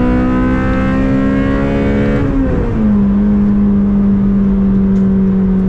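Honda Civic Si's K20 2.0-litre four-cylinder engine at high revs, heard inside the cabin: the pitch creeps up as it pulls, drops sharply about two and a half seconds in at an upshift, then holds steady in the next gear.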